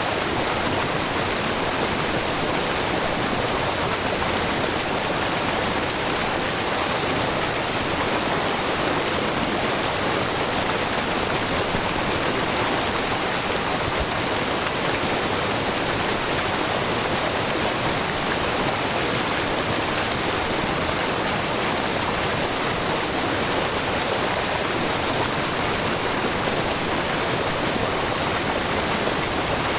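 Shiraito Falls, a wide, low waterfall where many thin streams of spring water spill about 3 m over a rock face into a brook. The water makes a steady, even rush with no breaks.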